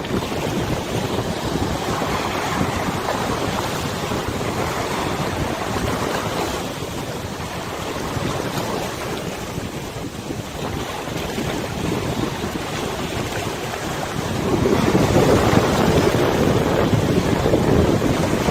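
Wind buffeting the microphone over a wide river, with water washing. It gets louder near the end as a gust rises.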